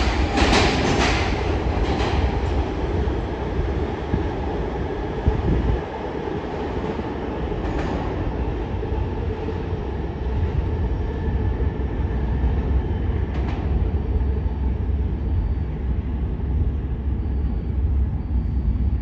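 R160 subway train running with a steady low rumble and some wheel clatter. A few sharper clacks come near the start.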